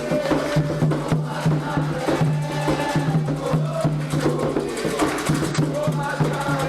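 Candomblé xirê music: drums and other struck percussion playing a steady, dense rhythm with voices singing over it.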